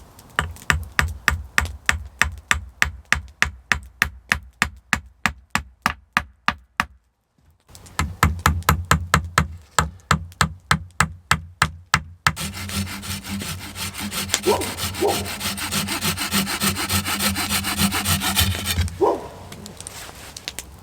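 Hand saw cutting through wood in even back-and-forth strokes, about four a second. It pauses briefly about seven seconds in, starts again, then from about twelve seconds saws faster and denser before stopping near the end.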